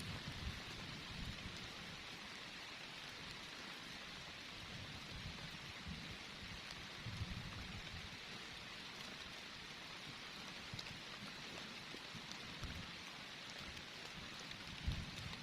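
Steady heavy rain falling, an even hiss with scattered low thuds of drops striking.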